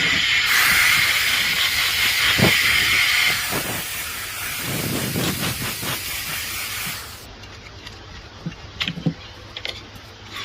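A loud, steady hiss that stops about seven seconds in, followed by a few light clicks.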